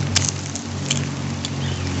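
Steady rain falling, with three sharp drops landing close by. A steady low hum runs underneath.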